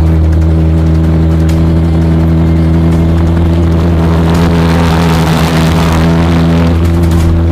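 Homemade LPG-fuelled pulse jet engine running with a loud, steady, deep buzzing drone. A rushing hiss swells over it around the middle.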